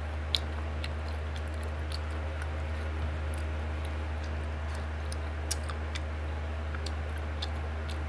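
Close mouth sounds of someone chewing food: scattered small wet clicks and smacks over a steady low hum. Two sharper clicks stand out, one just after the start and one about five and a half seconds in.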